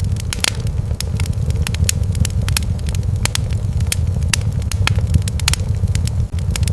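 Wood fire crackling and popping, with sharp irregular snaps several times a second over a steady low rumble.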